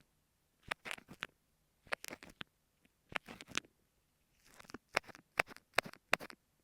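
Kinetic sand slime squished and pressed against an earphone microphone: short clusters of crackles and sticky pops about once a second, with brief silent gaps, coming quicker near the end.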